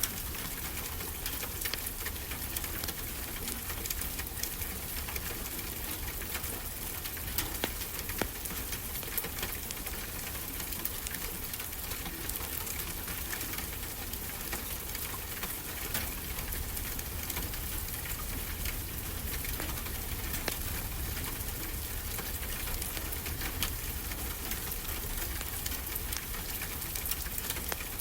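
Wood fire crackling with frequent sharp pops over a steady wash of ocean surf.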